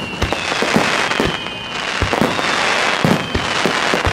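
Fireworks finale: rapid booms of bursting shells, several a second, over a dense crackle, with a high whistle falling slowly in pitch.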